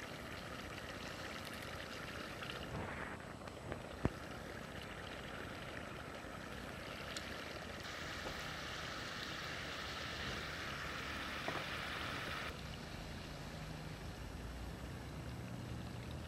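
Chicken karahi sizzling and bubbling in a steel cooking pot, a steady hiss. There is one sharp click about four seconds in. The hiss brightens for a few seconds in the middle and then drops back.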